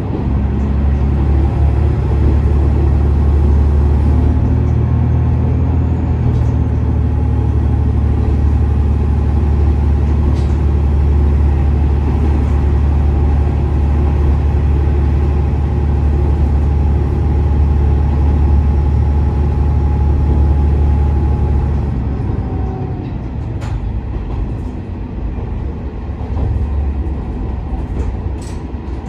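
KiHa 47 diesel railcar running along the line, heard from inside the car: a steady, loud low diesel drone with a faint whine above it. About three-quarters of the way through, the drone eases off and the sound drops a little, as the engine is throttled back.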